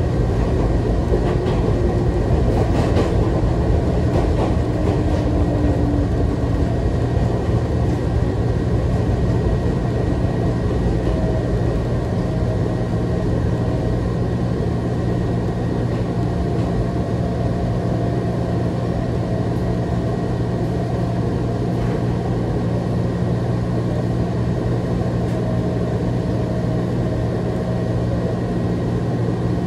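Electric commuter train heard from inside the car as it slows and comes to a stop at a station: a steady low hum from the train with rail rumble, a few faint clicks and whining pitch glides in the first several seconds, and slightly quieter running once stopped.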